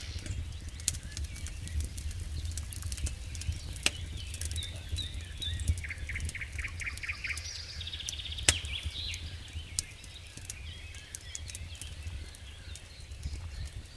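Wood campfire crackling with scattered sharp pops, two louder ones about four and eight seconds in, while birds chirp and trill over a low steady rumble.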